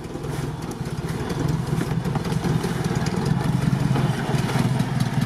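UAZ off-road vehicle's engine running steadily at low revs as it creeps along a muddy track.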